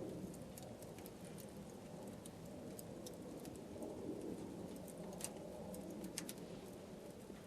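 Wood campfire burning in a fire stand: a low steady rush with scattered sharp crackles and pops, two of them louder about five and six seconds in.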